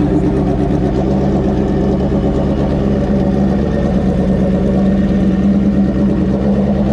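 Drag-racing motorcycle engine idling steadily.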